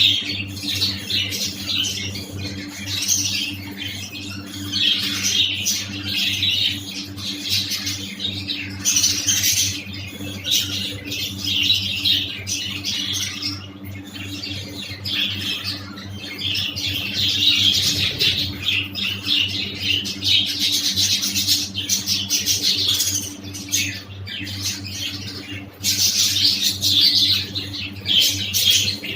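A flock of budgerigars chattering and chirping continuously, with a steady low hum underneath.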